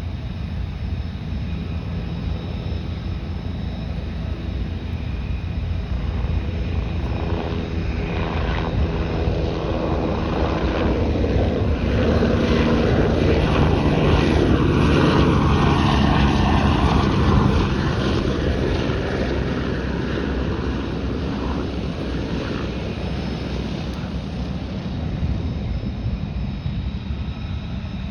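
Aircraft engines passing by: the sound grows louder to a peak about halfway through, then fades away.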